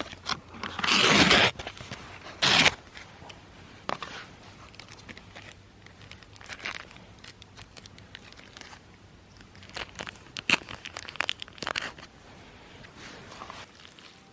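Handling noise: two loud rustling, crinkling bursts in the first few seconds, then scattered clicks and small knocks.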